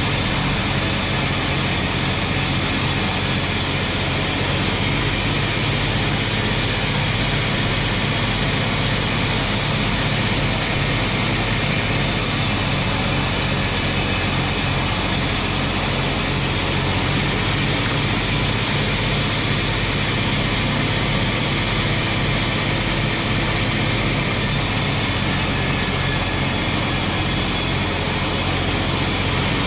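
Sawmill machinery for splitting wood slabs running steadily: a continuous motor hum under a constant wash of noise.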